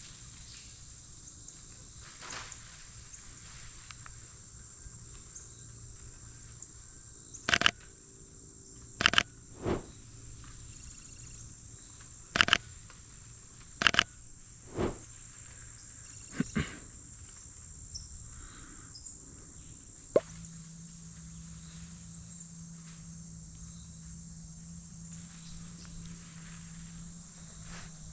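A steady high-pitched insect drone, cricket-like, with small repeated chirps over it. About eight sharp, loud clicks come in the middle stretch, some in quick pairs, and a low steady hum sets in about two-thirds of the way through.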